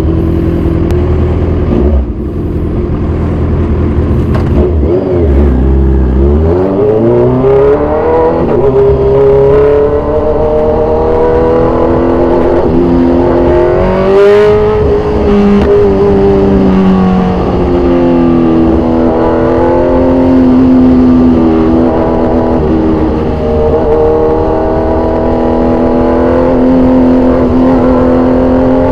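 2014 Kawasaki Z1000 Sugomi's inline-four running through an aftermarket exhaust under way, its note climbing as it accelerates hard about five seconds in and again a little later, then holding and wavering as it cruises.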